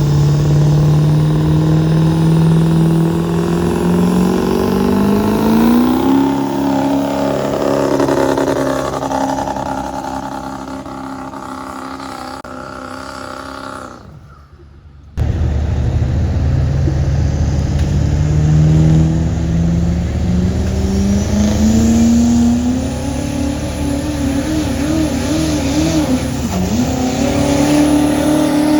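Diesel pickup truck engine under heavy load on a pulling track, its pitch climbing for several seconds and then held as the truck pulls the sled. About halfway through the sound drops out suddenly, and a second run starts, climbing again and then holding with a wavering pitch.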